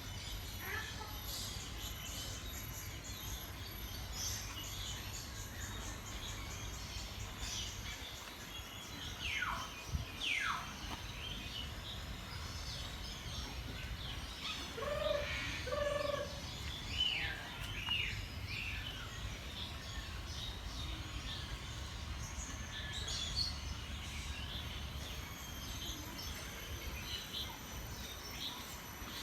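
Many birds calling at once: scattered high chirps and twitters, two long falling whistles about a third of the way in, and a pair of short lower calls about halfway through. A steady low rumble runs underneath.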